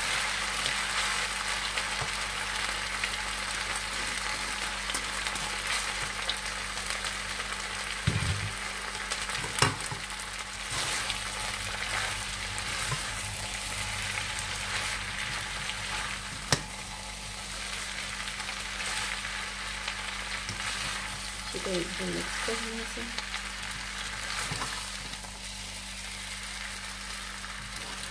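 Chicken spaghetti with vegetables sizzling in a nonstick wok as it is tossed and stirred, a steady frying hiss. Three sharp clicks stand out, the loudest about ten seconds in.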